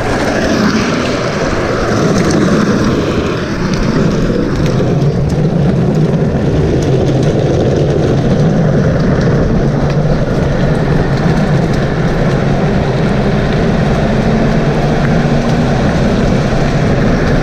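A vehicle running steadily in motion, a loud continuous rumbling noise.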